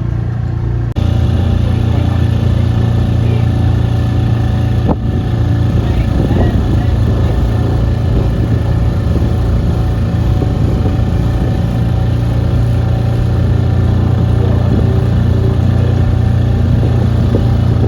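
Boat engine running steadily, a loud constant drone heard from on board.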